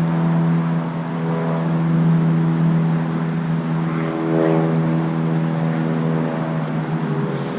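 A steady engine drone: a constant low hum with a stack of overtones that holds its pitch throughout.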